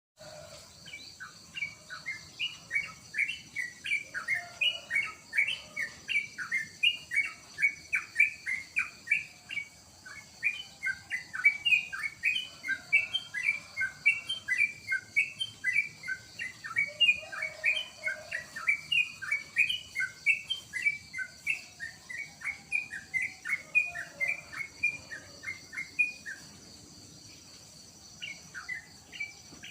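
Yellow-vented bulbul (trucukan) singing a long, continuous run of quick chirping notes, about three or four a second, with a short pause near the end.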